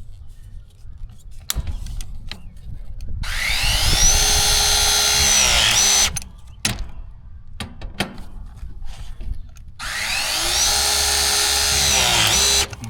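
Battery-powered press tool crimping press fittings onto copper refrigerant line, twice. Each press is a motor whine that rises in pitch, holds for about three seconds, then dips and cuts off suddenly.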